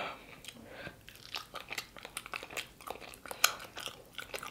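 Close-up chewing of sauce-coated fried chicken: irregular wet smacks and crunches of the breading, several a second, with one louder crunch about three and a half seconds in.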